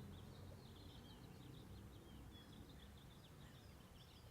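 Faint bird chirping, many short high calls in quick succession, over a low steady background rumble; otherwise near silence.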